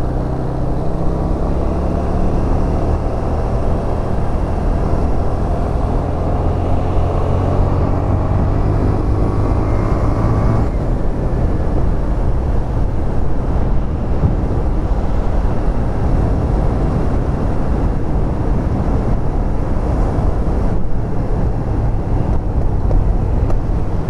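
Yamaha SRV250 V-twin motorcycle engine running under way, with rushing wind. The revs climb steadily until about ten seconds in, then drop off suddenly, as at a gear change or closing the throttle.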